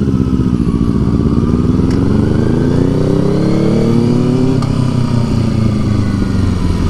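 Motorcycle engine under way, pitch rising steadily as it accelerates for about four seconds, then dropping back and running at a steadier speed.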